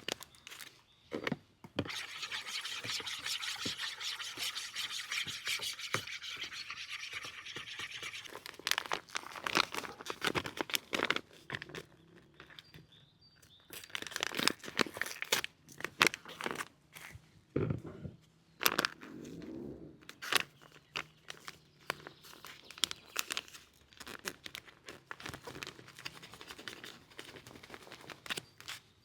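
Steady scraping and rubbing for about six seconds, then an uneven string of short knocks and clicks from things being handled.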